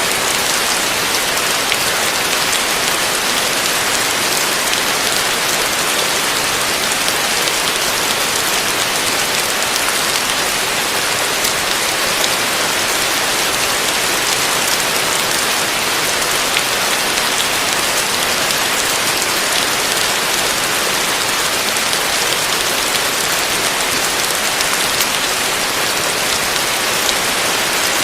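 Heavy rain falling steadily: an even hiss with faint ticks of single drops scattered through it.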